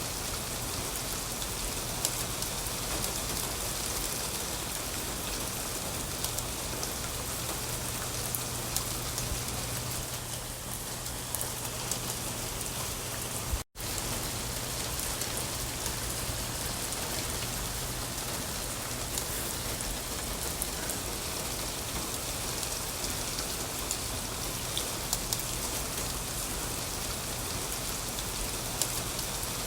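Steady rain falling on a surface, with scattered sharp drop ticks over an even hiss. The sound cuts out completely for an instant about 14 seconds in, then resumes.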